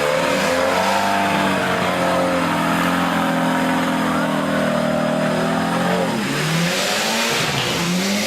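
Off-road 4x4's engine revving, its pitch climbing over the first second and holding high for several seconds, then dropping about six seconds in and picking up again near the end.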